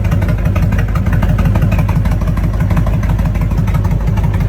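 Honda VTX V-twin motorcycle engine idling steadily, a loud, even low pulsing rumble.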